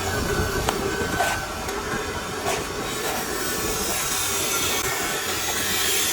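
Continuous harsh scraping of a steel plastering trowel worked over wet plaster on a wall, with a few faint taps.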